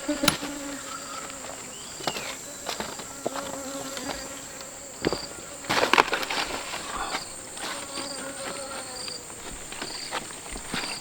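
Steady high-pitched insect drone with short chirps repeating about once a second. Several sharp knocks and a louder rustling scrape about six seconds in come through over it.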